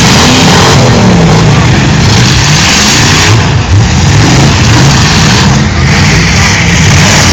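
Demolition derby cars' engines revving hard, several at once, their pitch rising and falling under a loud, noisy din.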